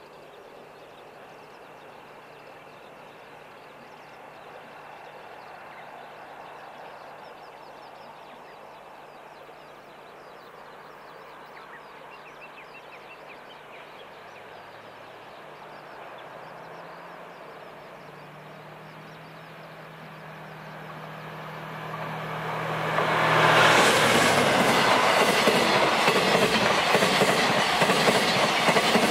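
A DF200 diesel-electric locomotive approaching from far off, its faint engine hum slowly growing louder. About three-quarters of the way through, it reaches the microphone and the sound jumps to the loud rumble and rattle of container wagons rolling past on the rails.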